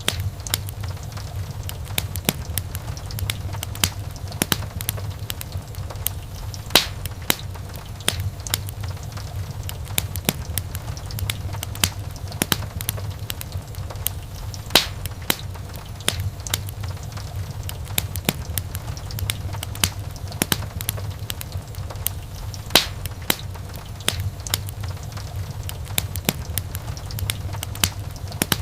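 Wood fire burning in a fireplace, crackling steadily with frequent small snaps and a few louder pops over a low rumble.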